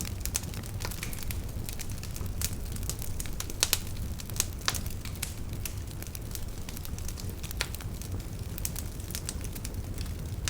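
Wood fire burning steadily with a low rumble and irregular sharp crackles and pops, a few louder snaps near the middle.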